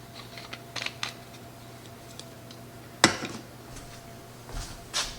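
Kitchen utensils and dishes clinking and knocking: a few light clicks, then a sharp clank about three seconds in and another knock near the end.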